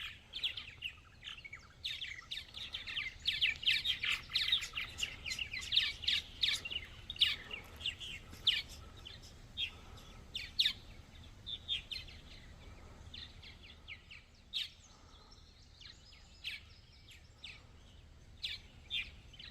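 Many small birds chirping, with quick overlapping high calls that are thickest in the first half and thin out to scattered chirps later.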